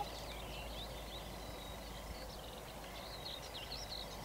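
Small songbirds chirping and singing, many short high calls overlapping continuously, over a faint steady background of outdoor noise.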